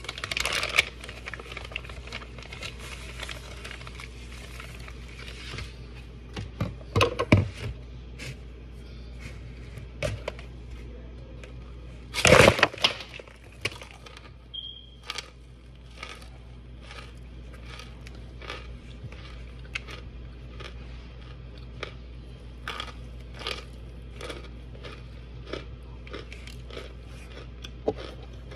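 Crinkling of a white wrapper at first, then hard, chalky white chunks being bitten and chewed close to the microphone: sharp crunching snaps, the loudest about seven and twelve seconds in, followed by many small crunches.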